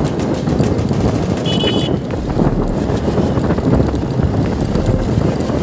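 Motorcycle riding, with wind buffeting the microphone and a steady stream of small rattles and knocks. A short high beep sounds about a second and a half in.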